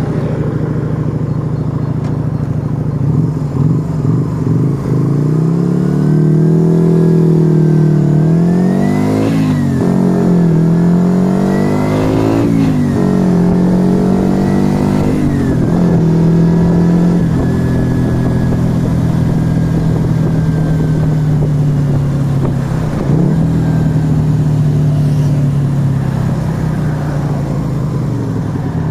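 Yamaha XV125 Virago's small V-twin engine through an aftermarket Turbo Kit exhaust, accelerating up through the gears, its pitch climbing and dropping back at each of several shifts. It then holds a steady cruise and eases off near the end.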